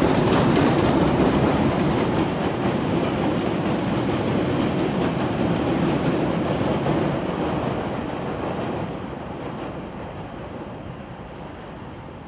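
CTA 'L' train running over the elevated Loop tracks through the junction, with wheel clatter. It fades away over the last few seconds as the train moves off.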